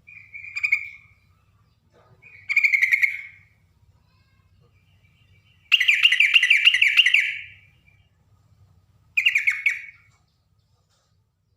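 Yellow-vented bulbul (trucukan) singing four short bubbly phrases with pauses between them. The third phrase, about six seconds in, is the longest and loudest, with a rapid warbling rise and fall.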